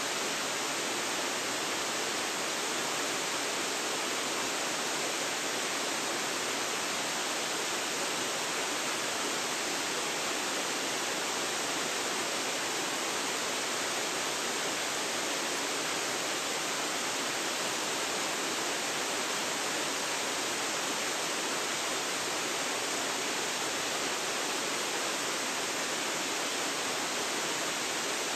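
Waterfall pouring: a steady, unbroken rush of falling water, strongest in the hiss range, with no separate splashes.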